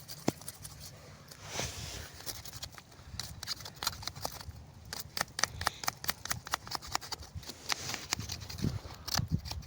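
Dry twigs and bits of rotten wood cracking and snapping as they are broken and handled, a rapid uneven series of sharp cracks that grows much busier about halfway through.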